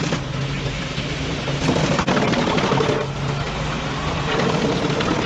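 Heavy machinery running steadily with a low engine hum, with a few sharp cracks and knocks scattered through it.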